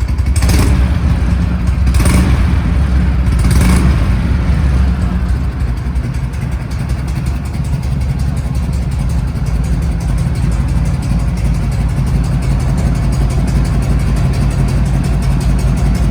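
1976 Harley-Davidson FLH1200's Shovelhead V-twin running, blipped three times in the first four seconds, then settling to a steady idle.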